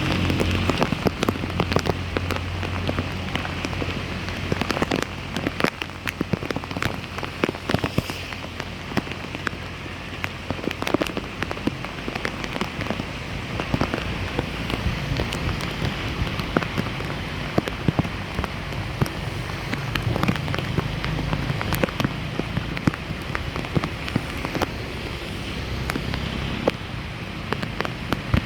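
Rain pattering on a surface and on standing water: a steady hiss thick with irregular drop ticks.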